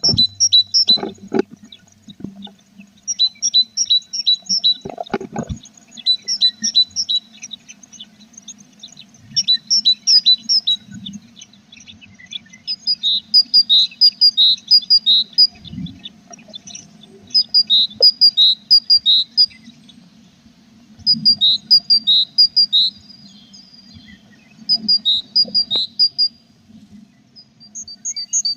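Tits chirping in quick runs of short, high notes, one burst every two to three seconds, over a faint steady low hum, with a few soft knocks.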